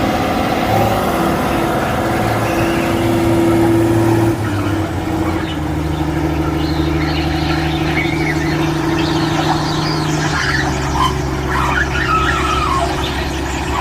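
Tractor engine running at a steady throttle, its engine note changing about four seconds in and again about ten seconds in, with high squeaks over it in the second half.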